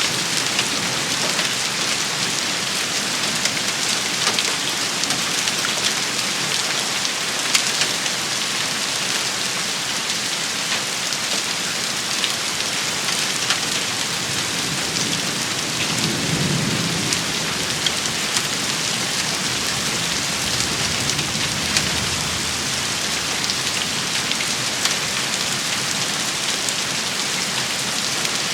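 Steady heavy rain shower pattering on surfaces, with scattered sharp drop hits. A low roll of thunder swells about halfway through and rumbles again a few seconds later.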